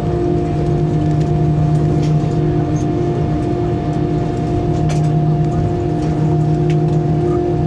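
Steady cabin noise of an Airbus A320 on the ground after landing: the engines run at low power as an even rumble with a few constant humming tones, and there are a few faint clicks and rattles.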